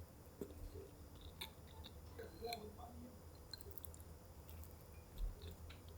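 Quiet chewing, with scattered small clicks and soft squishy sounds.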